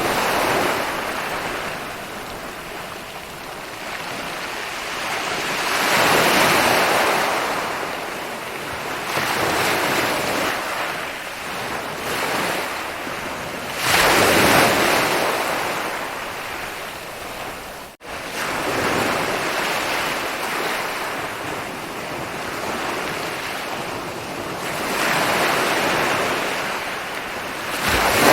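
Ocean waves rolling in and breaking on a beach, swelling and falling back every few seconds, with one sharper, louder break about halfway through. The sound cuts out for a split second about two-thirds of the way in.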